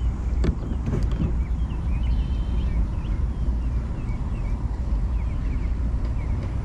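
Steady low rumble, with two short clicks in the first second and scattered faint high chirps through the middle.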